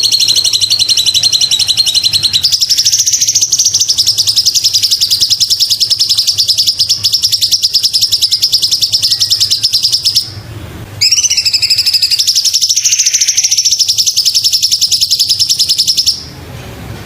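Sooty-headed bulbul (cucak cungkok) singing a very fast, even, high trill held for long stretches, breaking off briefly about ten seconds in and stopping near the end.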